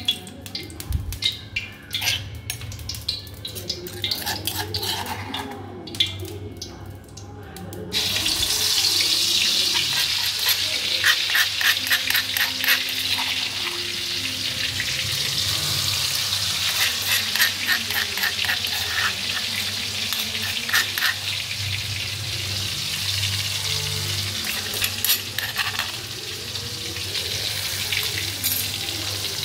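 Hot oil sizzling in a wok as a pounded paste of shallot, garlic, bird's-eye chilli and anchovy stock cube fries in it. The steady sizzle starts suddenly about eight seconds in, after a quieter stretch of clicks, and metal spoon clinks come in clusters over it.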